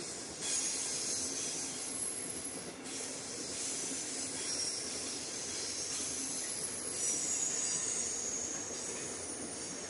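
Long intermodal freight train of container and tank-container wagons rolling past at speed. It makes a steady noise of wheels on rail, with thin high tones from the wheels above it.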